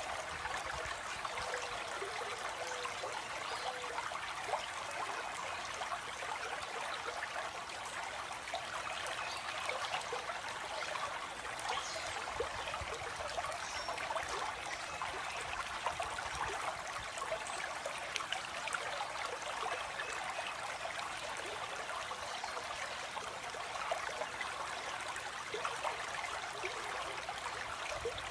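Water flowing steadily in a stream, a constant trickling rush.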